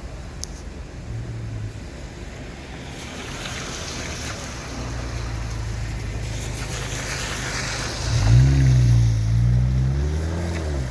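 City street traffic: a steady low rumble of engines with the hiss of passing cars, and about eight seconds in a nearby vehicle engine grows loud, its pitch rising and falling, for the last few seconds.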